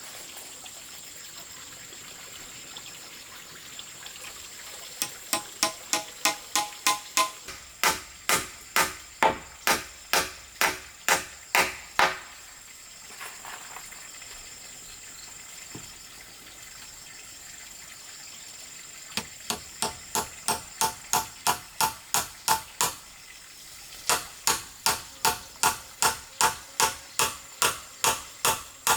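Hammer blows on wood in quick, even runs of about two to three strikes a second. There are three runs, with pauses a few seconds long between them.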